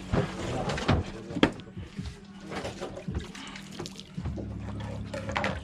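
Water splashing and sloshing, with irregular sharp knocks and clatter, over a steady low hum.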